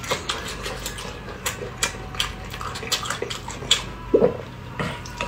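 Close-miked wet chewing of a mouthful of braised beef, with many sharp lip smacks and squelches. There is a short hum from the eater about four seconds in.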